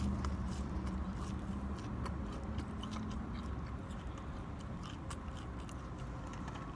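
A man chewing a mouthful of fried fast food, with soft chewing and small scattered mouth clicks, over a low steady hum.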